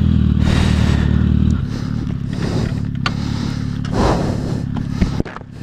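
Sport-bike engine running steadily. Its sound drops to a lower level about one and a half seconds in, with a few brief scrapes and clicks after that.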